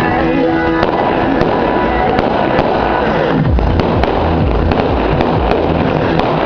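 Fireworks going off: scattered sharp bangs and crackles over a dense, continuous din, with music playing loudly underneath.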